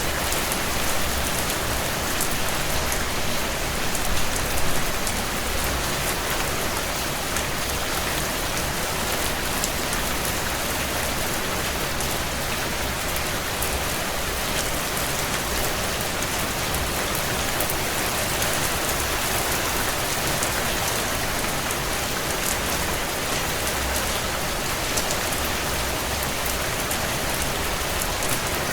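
Steady heavy rain on window glass: an even, dense hiss of rain peppered with many small sharp ticks of drops, slightly louder for a moment about four seconds in.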